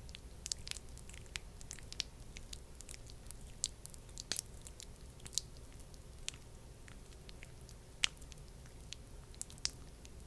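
Thick, sticky skincare product worked close to the microphone: irregular wet clicks and squishes, several a second, a few sharper than the rest.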